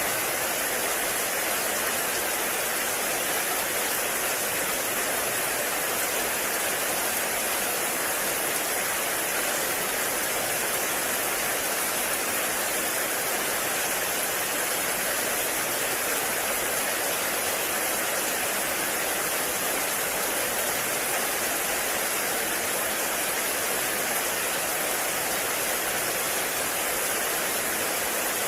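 Heavy rain falling in a forest, a steady even hiss with no distinct drops or changes.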